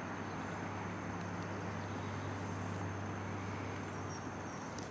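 Steady low rumble and hiss of an electric passenger train running away along the line into the distance.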